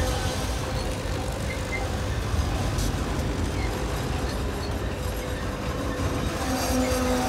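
Double-stack intermodal freight train rolling steadily past: a continuous low rumble of wheels on rail. Above it is a faint steady whine, which gets louder near the end.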